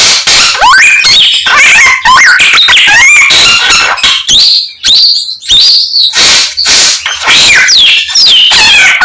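A Chinese hwamei (samyong) singing loudly: a fast, varied run of rising and falling whistles and trills, full of imitations of other birds' calls, with brief pauses between phrases.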